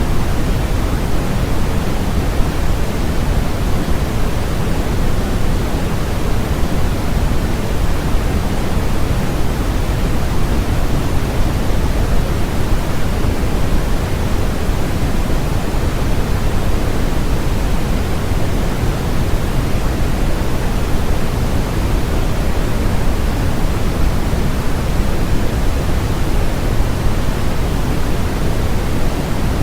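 Steady electronically generated noise played as a white-noise sleep track: an even, unbroken hiss that does not change. Its energy is weighted toward the low end, closer to pink noise than true white noise.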